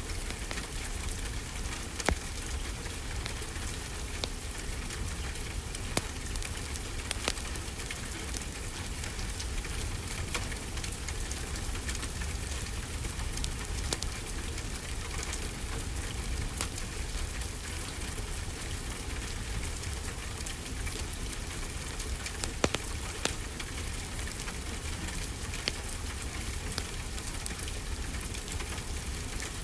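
Steady rainfall with a wood fire crackling, sharp pops scattered irregularly over the even hiss of the rain.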